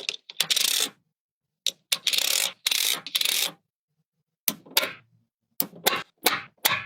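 Magnetic building pieces clicking and snapping together, with several longer scraping rubs as pieces slide against each other or over a hard surface. There are sharp clicks near the start, a run of three scrapes in the first half, and more quick clicks in the second half.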